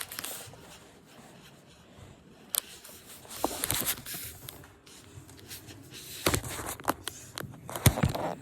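Scattered clicks, knocks and scrapes of small objects being handled, with a few sharper knocks about two and a half seconds in, in the middle and near the end.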